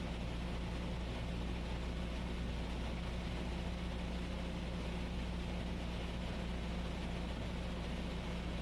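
Cessna 172S's four-cylinder Lycoming engine and propeller droning steadily in level flight, heard as cabin noise.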